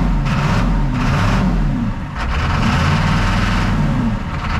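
A 1982 square-body C30's 6.2-litre naturally aspirated V8 diesel running just after a hard cold start in below-freezing weather. Its engine speed rises and falls about three times.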